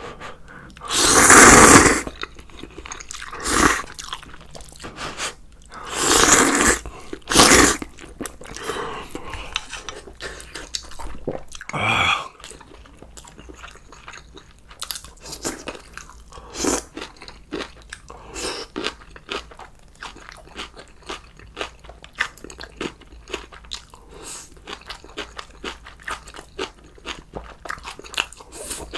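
Close-miked eating: several loud bursts of noise in the first eight seconds, then steady chewing and crunching with many small clicks.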